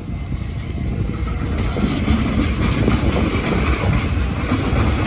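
Train passing close by: a steady low rumble of wheels running on the rails, growing slightly louder.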